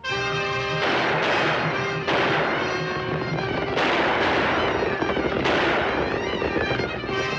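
Cartoon soundtrack: orchestral music under a rapid, noisy clatter of sound effects that starts suddenly and swells up again several times.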